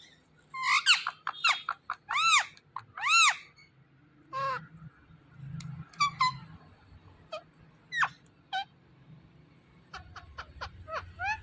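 Ringneck parrot calling: a run of shrill squawks and chirps. Several loud arching notes come in the first few seconds, then sparser sharp, quick downward-sweeping chirps.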